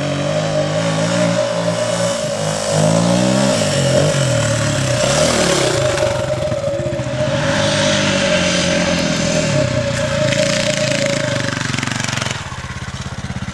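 Dirt bike engine running on the trail, its pitch rising and falling with the throttle. A steady high tone runs alongside until about eleven seconds in, and the level drops about a second later.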